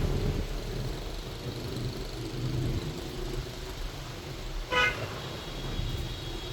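City street traffic with a steady low rumble of engines and tyres, and one short horn beep a little under five seconds in.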